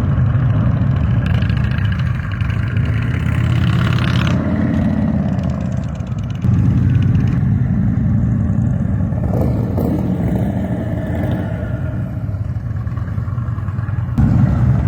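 Motorcycle engines running, with the sound changing abruptly a few times.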